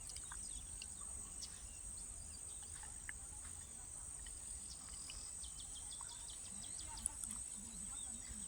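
Steady, high-pitched insect drone, like crickets, with scattered faint bird chirps and a low rumble underneath. A single short click sounds about seven seconds in.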